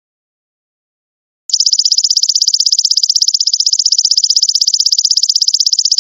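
Belalang emas (golden locust) insect call: a rapid, evenly pulsed high-pitched buzzing trill. It is silent at first and starts again about a second and a half in.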